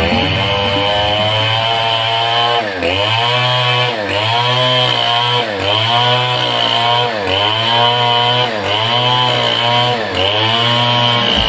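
Two-stroke chainsaw running at high revs and cutting teak root wood, its pitch dipping sharply and recovering about every second and a half as the chain bites.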